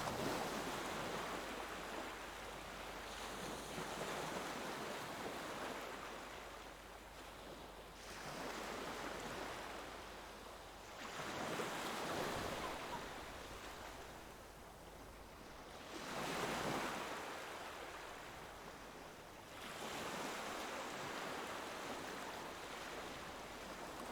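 Ocean waves breaking on a shore, the surf swelling and ebbing about every four to five seconds.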